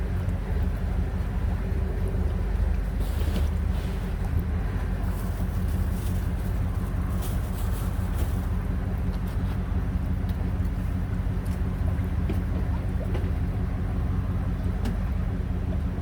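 A car engine idling steadily, a low even drone with a few faint clicks over it.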